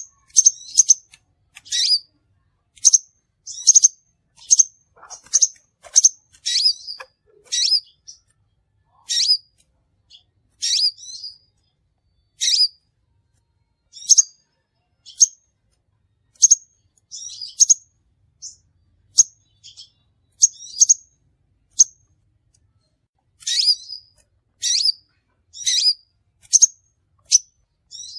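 Crimson sunbird calling: short, sharp, high-pitched chips, roughly one a second and sometimes in quick pairs, with brief pauses between runs.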